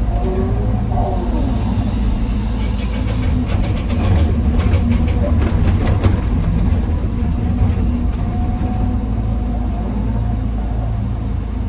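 Heavy diesel engine of an excavator running steadily. From about three seconds in, for roughly three seconds, a rapid run of knocks and clatters as andesite rock is dumped into a steel dump-truck bed.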